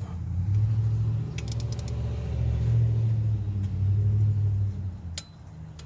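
Low, steady rumble of a motor vehicle's engine running nearby, swelling and easing, then fading out about five seconds in. A quick run of metal clicks, like a ratchet, comes about one and a half seconds in.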